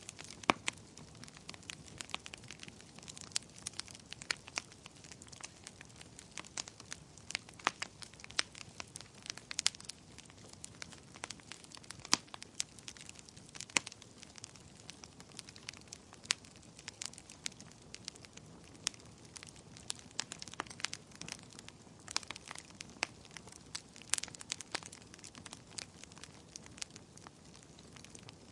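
Wood campfire crackling, with frequent sharp irregular pops and snaps over a low steady hiss of burning.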